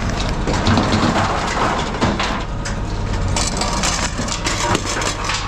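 Forklift engine running while scrap metal clatters and shifts in a bin being tipped, with irregular knocks and rattles over the steady engine hum.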